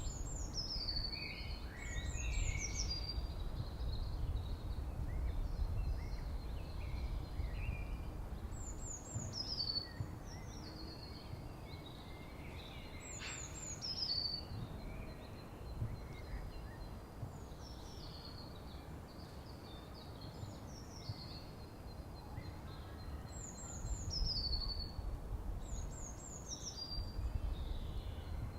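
White-throated kingfisher calling: a shrill run of quick notes that fall steadily in pitch, repeated about seven times with pauses of a few seconds between runs. A low, steady rumble of background noise lies beneath.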